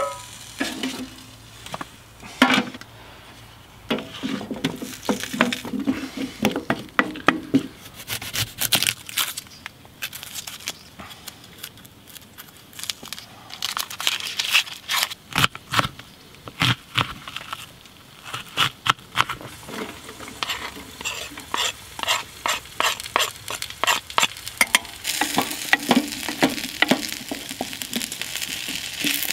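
A knife cutting onion and potato, a long run of quick sharp taps. Near the end the diced potato and onion go into a hot pan and start sizzling as they are stirred with a wooden spatula.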